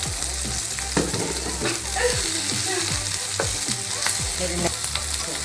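Chicken skewers sizzling in hot oil in a non-stick frying pan, a steady hiss, with a series of short clicks and taps as a spatula handles them against the pan.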